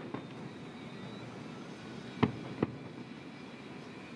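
Two distant fireworks shells bursting with sharp bangs about two seconds in, less than half a second apart, over a steady background hum.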